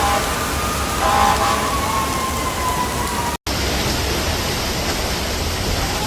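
Heavy rain, a steady hiss of rainfall and running water, with a drawn-out tone drifting slightly in pitch over it through the first half. About three seconds in the sound cuts out for an instant and comes back as a steadier rush of water.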